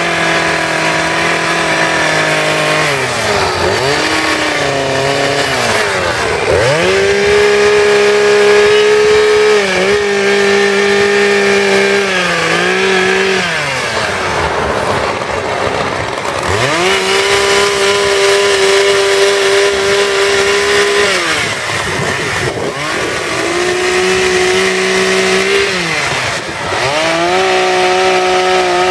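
Two-stroke chainsaw carving wood, its engine revving up to full throttle and holding for a few seconds, then dropping back and revving again, over and over between cuts.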